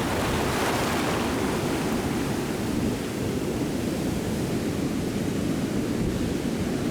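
Wind and surf whipped up by an approaching hurricane: a loud, steady, dense rush of noise.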